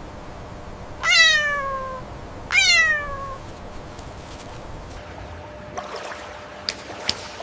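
Two drawn-out animal calls about a second and a half apart, each falling in pitch. A few light clicks follow near the end.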